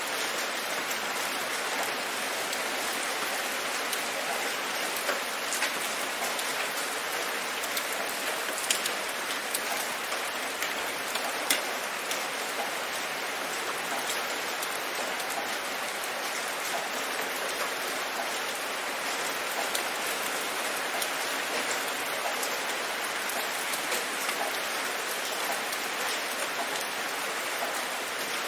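Steady rain falling, an even hiss with scattered individual drops ticking sharply on a surface, a few louder near the middle.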